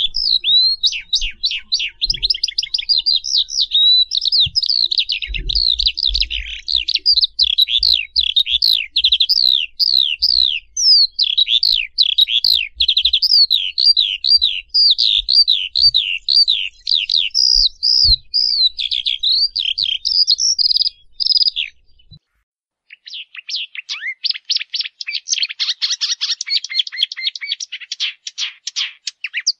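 Birds chirping in fast, high-pitched repeated calls. The chirping stops briefly about 22 seconds in, then comes back as a denser, faster chatter.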